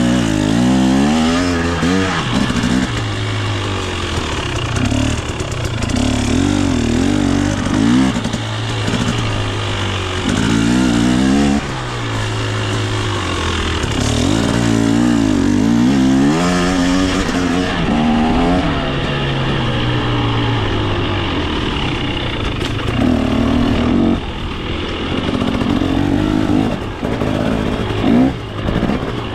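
KTM 250 XC two-stroke dirt bike engine being ridden, the throttle opened and closed over and over so the revs rise and fall every second or two.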